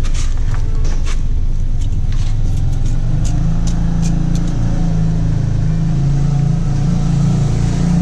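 Car engine idling. Its low hum grows louder and steadier about three seconds in, with scattered light clicks in the first half.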